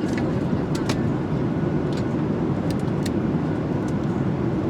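Steady low rumble of an airliner cabin in flight, with a few faint clicks.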